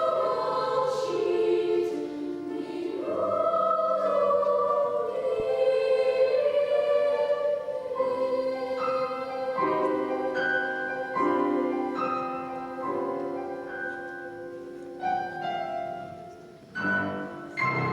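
Children's choir singing the closing phrases of a song in several parts with piano accompaniment, holding long sustained notes. Near the end the singing gives way to a few short piano chords.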